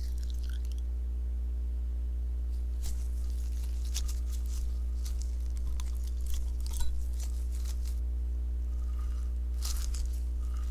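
Sponge slime being handled, giving scattered small crackles and pops in loose clusters, over a steady low hum.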